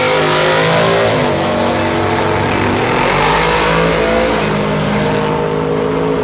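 Drag race car engine running loud, its pitch shifting down and up a couple of times as it is revved.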